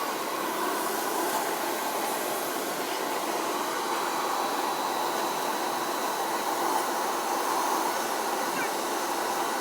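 Car-wash machine running with a steady rushing hiss.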